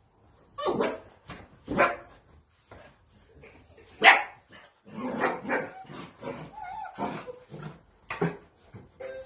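Spanish water dog puppies barking, a string of short separate barks, the loudest about four seconds in.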